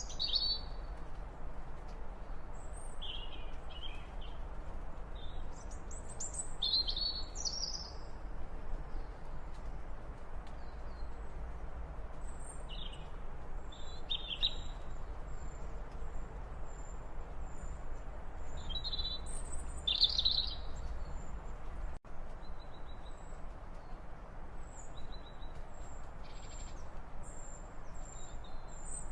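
Small birds chirping and calling in short, scattered phrases, with a thin, high, rapidly repeated note running through much of it over a steady low background rumble.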